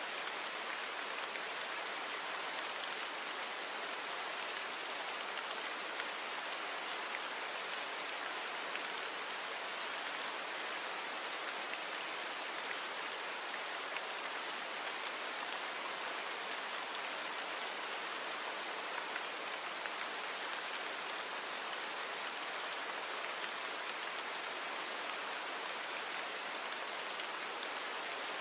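Steady rainfall, an even hiss of drops falling on surfaces, with no distinct individual drips.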